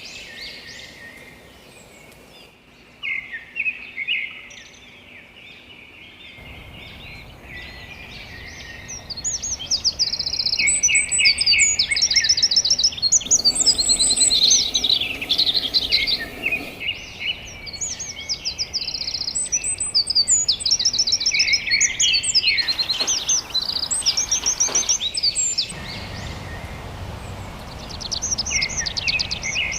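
Several songbirds singing and chirping in quick trills and repeated high notes, sparse at first and then overlapping busily from about a third of the way in. The background hiss shifts abruptly several times.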